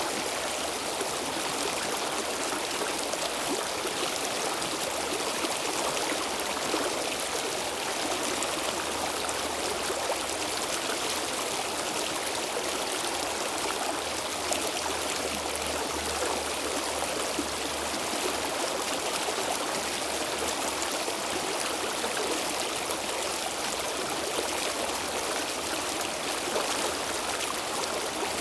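Stream water flowing steadily, a continuous rushing and trickling over stones.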